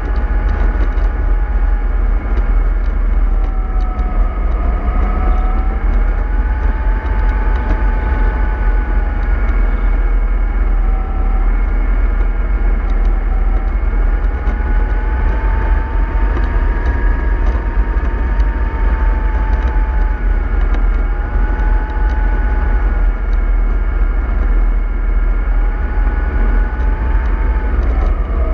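Vehicle in motion: a drivetrain whine that slowly rises and falls in pitch over a steady low rumble, dropping sharply at the very end.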